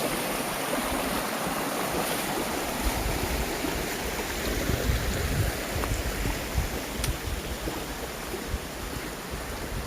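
Mountain valley stream rushing steadily after rain, with an uneven low rumble of wind on the microphone.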